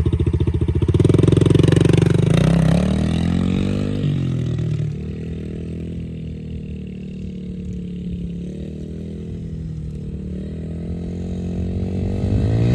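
Yamaha TT-R110 dirt bike's small four-stroke single-cylinder engine pulling away and revving up in first gear, fading as the bike rides off, then growing louder again near the end as it comes back. It stays in first gear throughout; the young rider has not shifted up.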